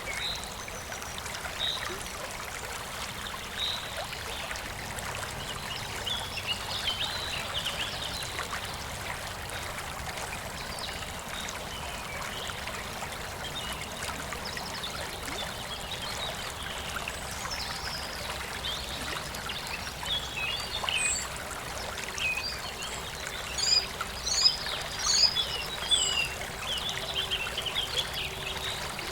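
Stream water running steadily, with songbirds chirping over it; the chirping grows busier and louder in the second half.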